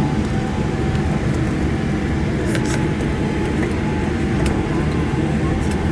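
Cabin noise of a Boeing 787 rolling on the ground after touchdown: a steady low rumble from the landing gear and engines, with a faint steady whine and a few light clicks about two and a half and four and a half seconds in.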